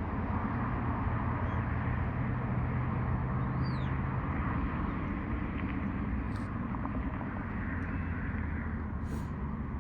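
Union Pacific grain train rolling past: a steady rumble of the train on the rails with a low drone underneath. A bird chirps once about four seconds in, and there are a couple of sharp clicks later on.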